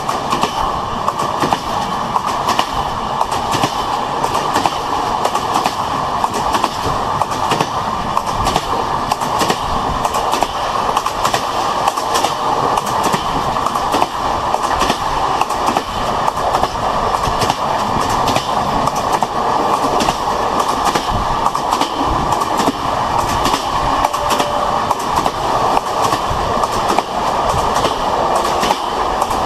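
A train running on its track: a steady rattle of many closely spaced wheel clicks over the rails, even in level throughout.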